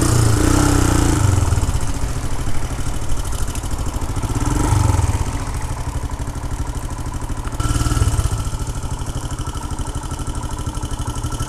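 Royal Enfield Himalayan's single-cylinder engine running at low speed in town traffic, with an even pulsing beat, then idling at a standstill near the end.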